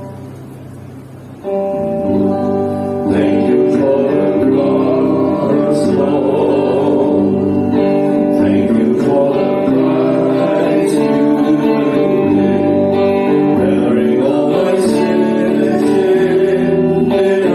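Worship music: guitar, with singing. A held chord fades at first; the band comes in about a second and a half in and grows fuller about three seconds in.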